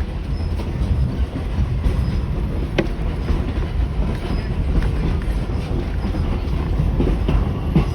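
Wooden 1920s Evans passenger carriage riding along the rails: a steady low rumble of wheels and running gear, with a few sharp clicks, one about three seconds in and another near the end.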